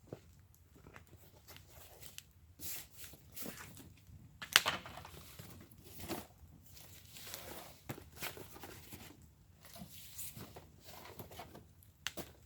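Wood fire burning in a fire pit, crackling with irregular pops and snaps, one much louder pop about four and a half seconds in.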